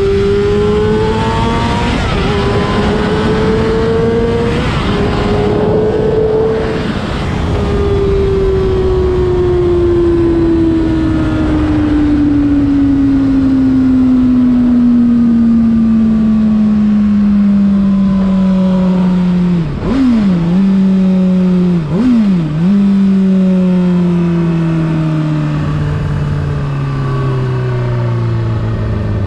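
Honda CBR600RR inline-four engine at high revs, climbing with short breaks in the first few seconds, then revs falling in one long steady slide as the bike slows on engine braking. Twice in the latter half the engine note dips and jumps back up in quick blipped downshifts, over steady wind rush.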